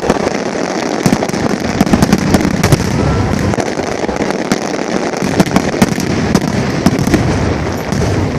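Dense barrage of aerial fireworks: rapid sharp cracks and bangs, several a second, over a continuous low rumble of booms.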